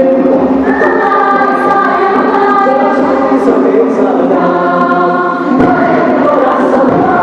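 Choir singing in harmony, holding long chords that change every second or two.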